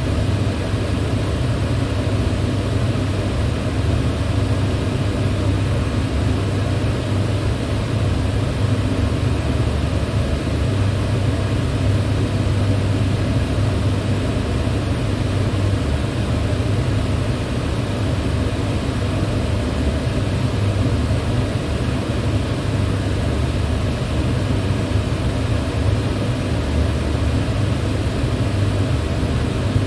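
Electric fan running steadily: a low, even hum under a constant rush of air, with no change throughout.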